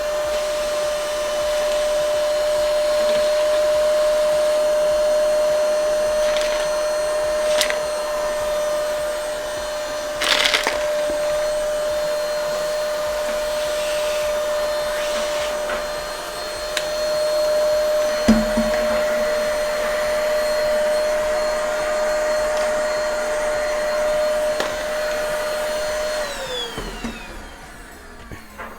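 Ingco cordless vacuum cleaner running with a steady motor whine while picking up nuts, broken by a few sharp clicks and a low knock. Near the end the whine falls away as the motor is switched off and winds down.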